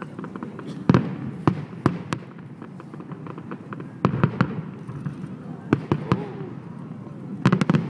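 Aerial fireworks bursting: sharp bangs come in clusters about a second in, around four seconds, near six seconds and near the end, with lighter crackling between them.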